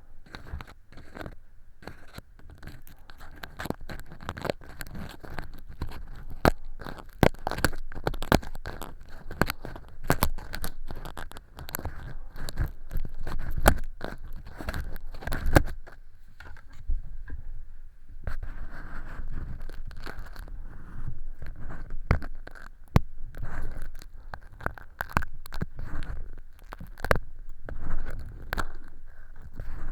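Ear pick scraping and scratching inside a silicone model ear canal, lifting off thin flakes of artificial earwax: a dense run of irregular crackly scrapes and clicks.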